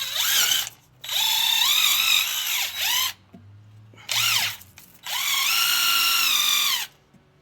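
Drill spinning a nylon scrub brush against a motorcycle chain, run in four bursts of one to two seconds; its high whine dips and rises in pitch as the brush loads against the chain.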